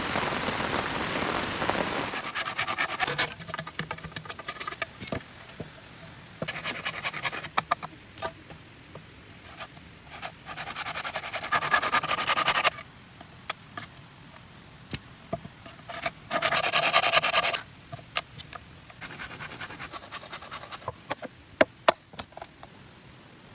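Rain falling steadily, stopping abruptly after about two seconds. Then come several separate bursts of rapid scraping strokes, each a second or two long, with scattered sharp knocks and clicks near the end.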